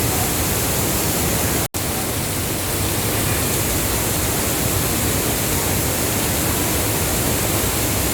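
Rushing floodwater: a loud, steady hiss. A brief dropout to near silence comes about a second and a half in.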